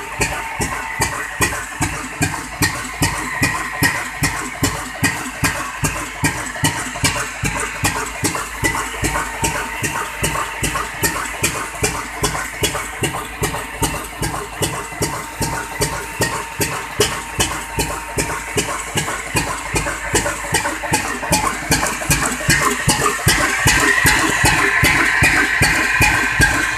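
Slow-speed 22 HP desi 'Kala' diesel oil engine running with an even, regular beat, getting louder near the end.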